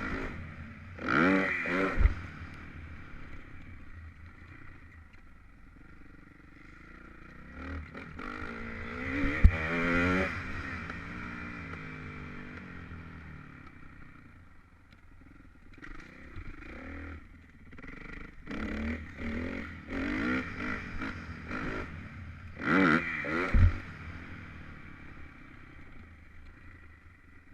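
Motocross bike engine revving hard in three loud passes, its pitch rising and then falling. Each pass ends in a sharp thump. Between the passes the engine runs quieter, with a few shorter revs.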